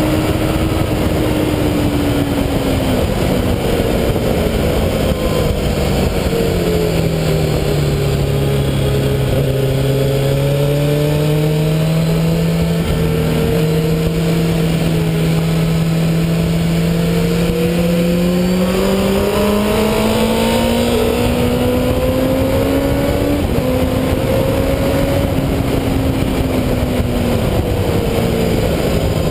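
MV Agusta sport motorcycle engine under way on a track, heard from a fairing-mounted camera through heavy wind rush. The engine pitch drops as the bike slows for a long bend, holds low through it, then rises as it accelerates out, with short dips at gear changes later on.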